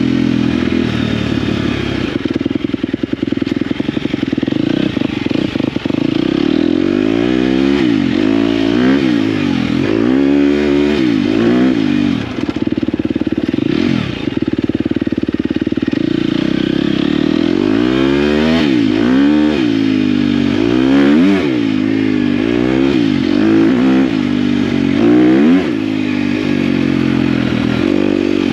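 Dirt bike engine revving up and down over and over as the rider works the throttle and gears, with a couple of steadier stretches at held revs.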